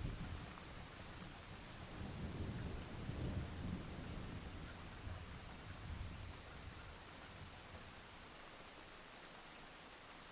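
Steady rain hissing, with a low rumble of thunder that swells in the first few seconds and fades out about seven seconds in, leaving only the rain.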